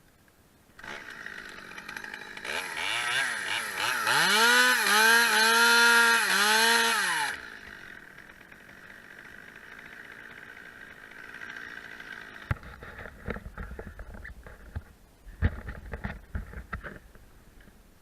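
Two-stroke chainsaw revved hard, surging and dipping several times, then dropping back to idle about seven seconds in. Low rumbling with scattered knocks follows near the end.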